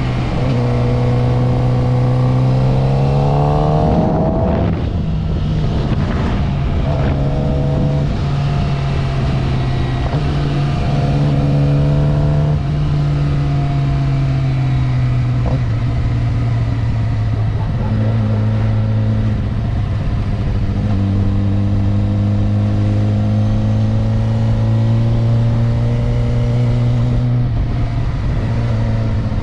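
Motorcycle engine under way, heard from the rider's seat: revs climb over the first few seconds, drop at a gear change about four seconds in, then rise and shift a few more times before settling into a steady cruise. A steady rush of wind noise runs underneath.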